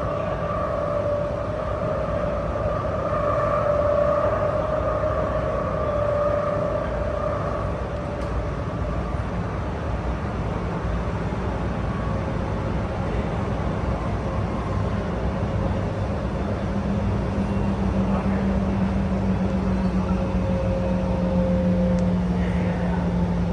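SMRT R151 metro train running between stations: a steady wheel-on-rail rumble with motor whine tones. A higher whine fades over the first several seconds, and a lower hum comes in about two-thirds of the way through.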